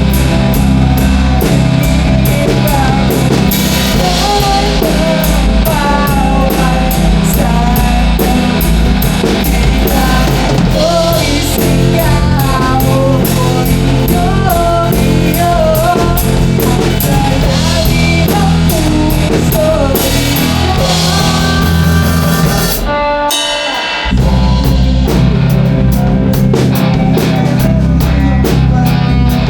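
Rock song played by a band, with drum kit and electric guitars and a wavering melodic lead line over them. The band drops out for about a second after roughly 23 seconds, then comes back in.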